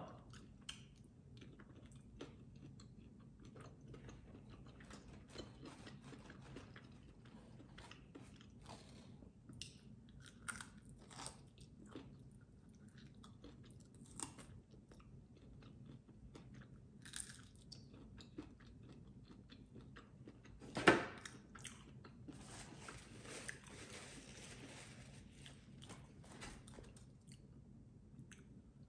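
Quiet, close chewing and biting of fried chicken wings, with scattered small crunches and mouth clicks. One sharper, louder crunch or knock comes about two-thirds of the way through.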